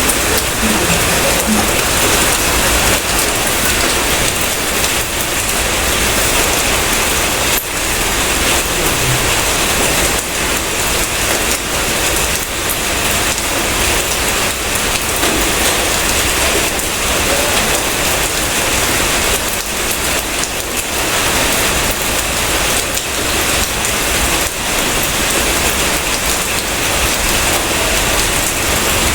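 Steady rain falling: a dense, even hiss with many small drop impacts scattered through it.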